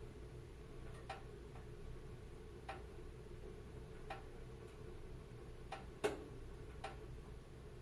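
Wood fire crackling in a fireplace: about six irregularly spaced sharp pops, the loudest a little after six seconds in, over a steady low rumble of the burning fire.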